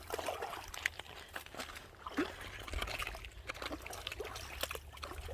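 Shallow river water trickling and splashing, with many small irregular splashes.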